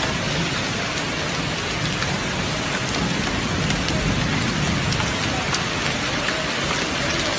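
Heavy rain pouring steadily onto a tiled floor, a dense even hiss with a few sharper single drop hits.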